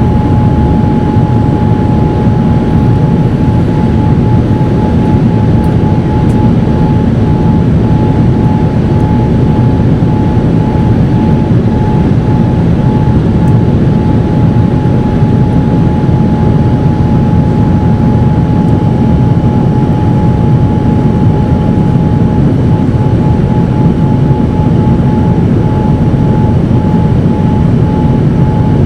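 Boeing 787-9 jet engines in flight, a steady loud low drone with a constant high whine over it.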